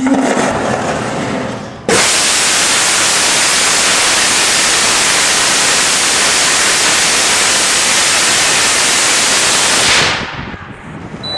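Rocket engine static test firing: a hissing, rumbling build-up, then about two seconds in the engine lights with a sudden loud roar that holds steady for about eight seconds before cutting off and trailing away.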